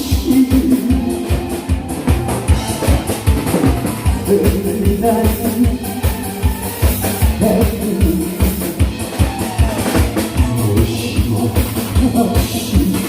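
Korean trot backing track playing an instrumental passage between sung lines, with a steady, even kick-drum beat and a melody line over it.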